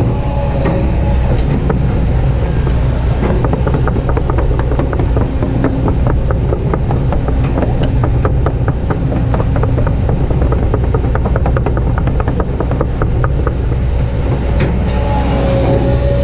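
Kobelco SK200-8 hydraulic excavator working, its diesel engine running steadily under load, with a rapid run of clicks and rattles through the middle.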